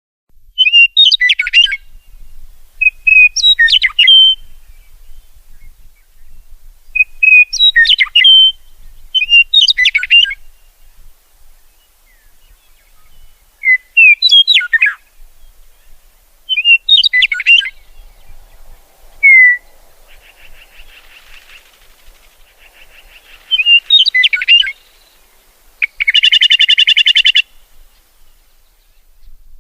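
Songbird singing short, quick, sweeping phrases about every two to three seconds. Near the end comes a loud, buzzy, rapid trill.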